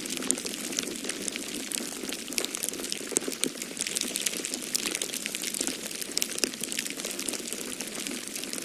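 Wood fire crackling in a fireplace: many small, irregular pops and snaps over a steady low rushing noise.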